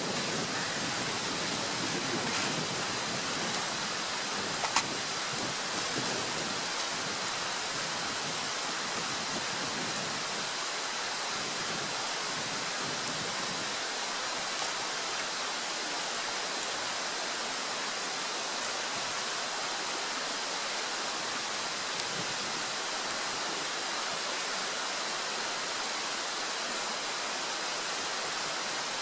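Sausages and bacon frying in a pan, a steady, even sizzle with a sharp crackle about five seconds in.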